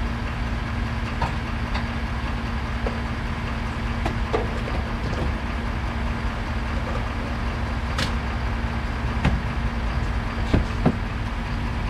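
An engine running steadily with an even low hum, with a few light clicks and a sharp tick about eight seconds in.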